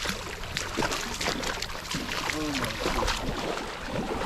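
Footsteps sloshing and splashing through shallow river water, with irregular short splashes and a steady trickle of water.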